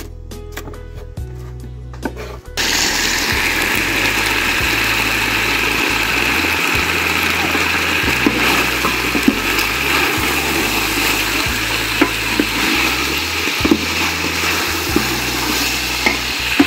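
A knife chopping red onion on a wooden board in quick strokes, then, about two and a half seconds in, a loud steady sizzle of beef liver frying in a metal pot, with occasional knocks of a metal spoon stirring it.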